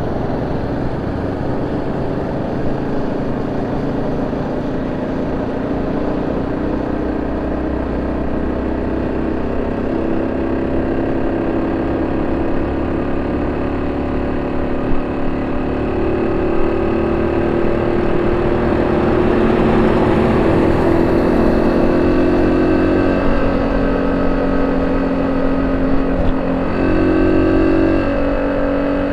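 Honda C70's small single-cylinder four-stroke engine running through a banana-style aftermarket exhaust, the engine note rising and falling several times and getting louder from about halfway.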